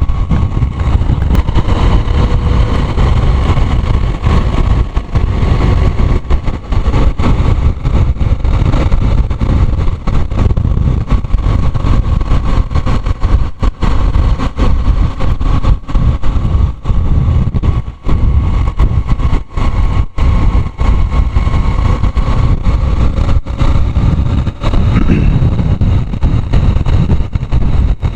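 Motorcycle engine running steadily as it is ridden, under a loud low rumble, its pitch rising a little near the end.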